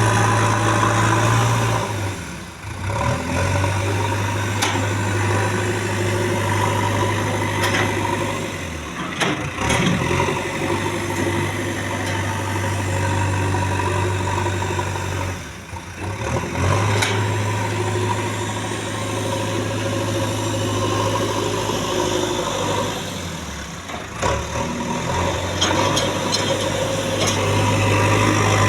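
JCB 3DX backhoe loader's diesel engine running steadily, its steady low note breaking off and changing briefly about four times, roughly every seven seconds.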